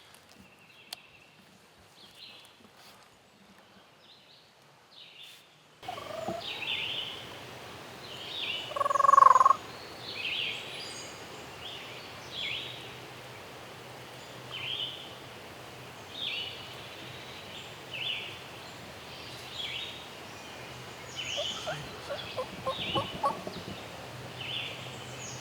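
Wild turkey gobblers gobbling repeatedly, with one loud, close gobble about nine seconds in. The first several seconds are quiet.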